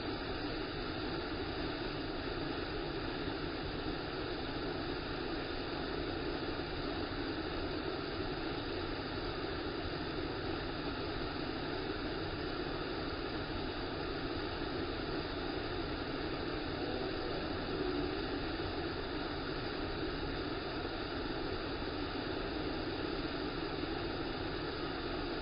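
Waterfall water rushing in a steady, even roar that holds without a break.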